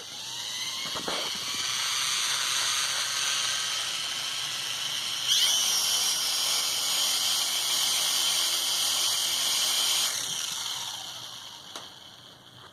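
Small drone's electric motors whining at low throttle, a high steady whine that jumps up and rises about five seconds in, drops back about ten seconds in and winds down.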